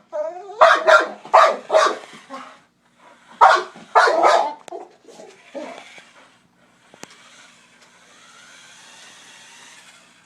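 Blue nose pit bull barking repeatedly in excited bursts: a quick run of loud barks in the first two seconds and another around three and a half to five seconds in, then a few softer ones before it falls quiet.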